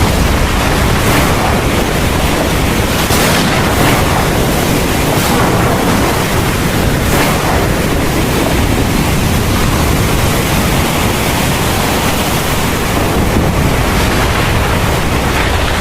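Heavy rain pouring steadily, a dense continuous hiss with brief brighter surges of spatter now and then.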